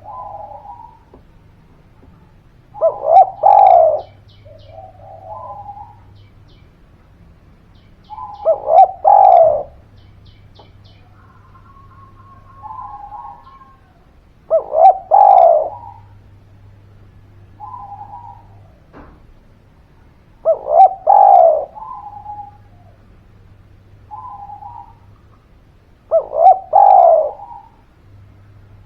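Spotted dove cooing: its song phrase repeats about every six seconds, a few quick notes running into a longer coo, with softer single coos in between.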